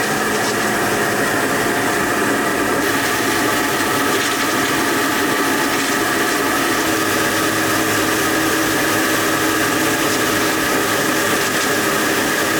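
Century-old microhydro water turbine running under water pressure on its first test after rebuilding: a steady, loud mechanical whir of several tones over the rush of water spraying from the turbine.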